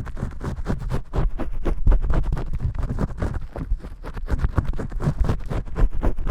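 Vigorous shampoo scrubbing close to the microphone: fingers working lathered hair and scalp in rapid, scratchy rubbing strokes, several a second.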